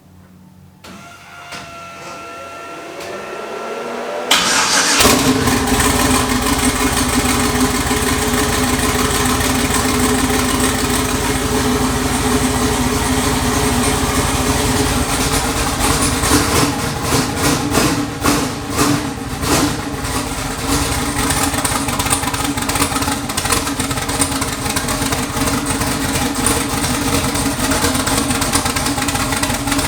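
Chevy S10 drag truck's carbureted twin-turbo LS V8 being started to warm up: a whir builds for a few seconds, then the engine fires about four seconds in and settles into a loud, steady idle. It runs a little unevenly for a few seconds around the middle.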